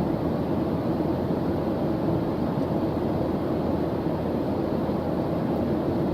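Steady white-noise background track, an unbroken deep rushing hiss that does not change.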